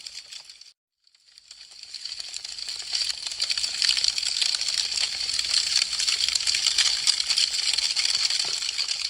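Wood fire crackling: a dense, fast patter of small sharp pops and snaps. It fades out under a second in, falls silent briefly, then fades back in and builds to full strength over about two seconds.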